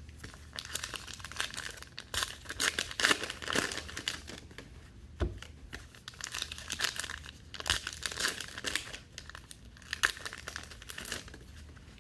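Trading-card pack wrappers crinkling and tearing, with cards being handled: irregular crackly rustles in clusters.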